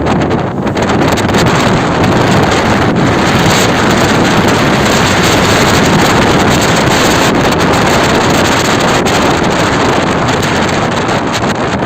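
Loud, steady wind noise buffeting the microphone while riding an electric motorbike, with no engine sound standing out.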